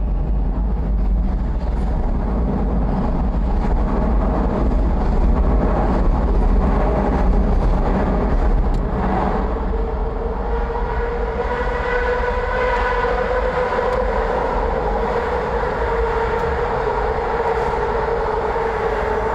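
Elevated train passing, a steady low rumble joined about ten seconds in by a steady whine in several pitches.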